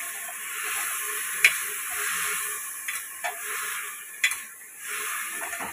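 Chopped vegetables sizzling in hot ghee in an aluminium pressure cooker while a metal spoon stirs them, scraping and knocking sharply against the pot a few times.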